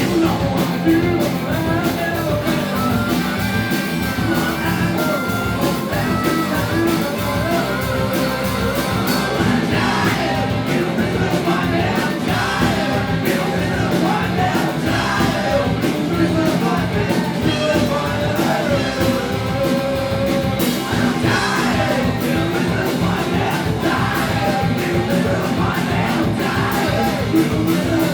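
Live rock band playing: drum kit, electric guitar and bass, with a singer's voice over the top.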